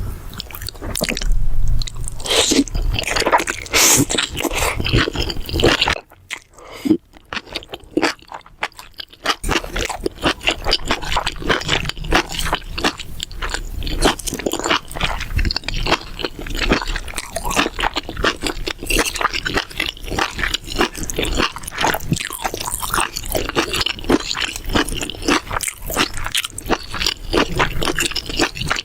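Close-miked chewing and crunching of mala xiang guo, a spicy stir-fried mix of vegetables and meats, with wet, squishy mouth sounds and some scraping. It quietens briefly about six seconds in, then the crunching picks up again and goes on steadily.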